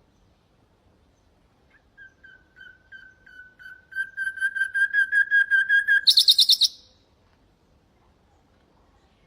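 Common nightingale singing one phrase. A rapid string of repeated whistled notes on one pitch starts soft about two seconds in and swells louder. It ends in a short, loud, higher-pitched rattle.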